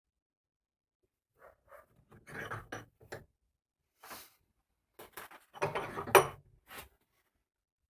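Workshop handling noises: a series of separate knocks, clunks and short scrapes of wood and tools being moved and set down, with the sharpest knock about six seconds in.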